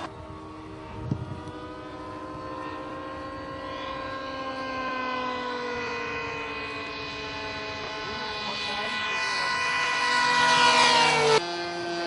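Propeller-driven model airplane engine running in flight, its pitch drifting and then rising as it grows louder, as in a fly-by. It cuts off suddenly near the end. A single knock comes about a second in.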